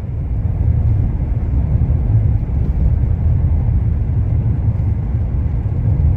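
Steady low rumble of a Cadillac Escalade driving on snowy roads: engine and tyre noise.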